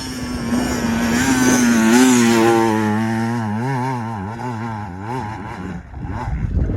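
Dirt bike engine revving hard on an off-road climb: the note rises to its loudest about two seconds in, then surges up and down as the throttle is worked on and off, and fades near the end.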